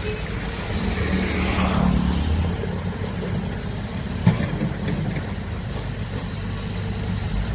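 Heavy excavator's diesel engine running steadily under load, with a rush of noise about a second in and a single sharp knock a little past the middle.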